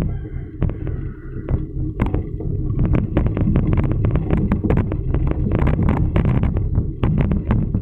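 Wind rumbling on the microphone of a moving bicycle, with frequent short rattling clicks.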